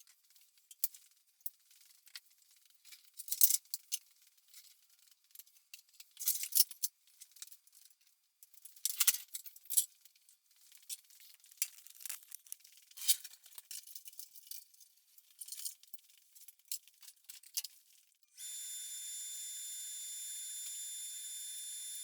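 Scattered clinks, knocks and rattles of metal and glass-like parts as workshop tools are handled and set up. About 18 seconds in, a steady hiss with a few thin high tones cuts in suddenly.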